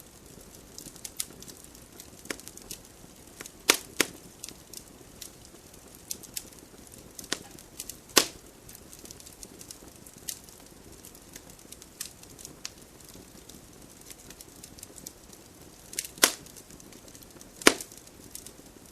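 Campfire burning: wood crackling with small irregular snaps over a faint hiss, and a few louder pops, two close together about four seconds in, one about eight seconds in and two more near the end.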